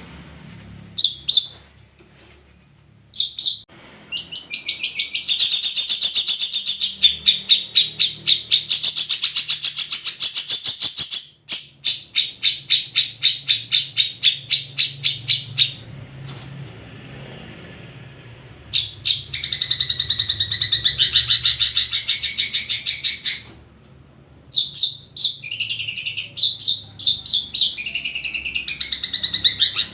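Long-tailed shrike (cendet) song: phrases of fast, rapidly repeated high chattering notes, each lasting a few seconds, broken by short pauses.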